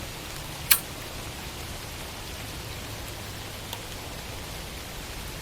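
Steady hiss of background noise with a faint low hum, and one short sharp click just under a second in.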